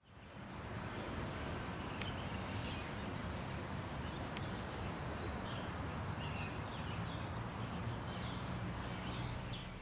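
Outdoor ambience: a steady low background rumble with a bird repeating short, high chirps about once a second. The sound fades in at the start and fades out near the end.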